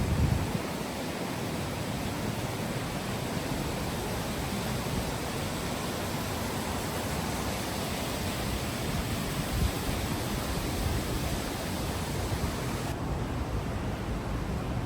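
Rushing water of a canyon stream, a steady even hiss; its highest part drops away near the end.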